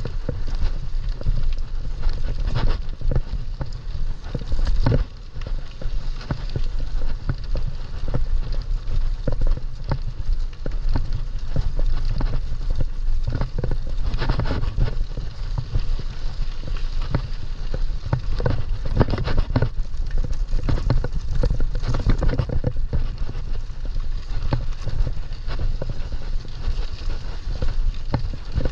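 Mountain bike riding over rough ground: a constant irregular rattle of clicks and knocks from the bike over a steady low rumble.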